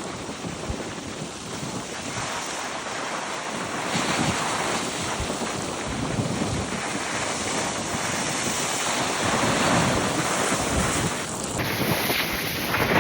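Gale-force wind buffeting the microphone over the rush of storm waves breaking on the shore, in about 60-mile-an-hour gusts.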